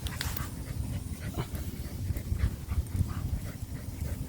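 Jindo dog panting in short, irregular breaths over a low rumble.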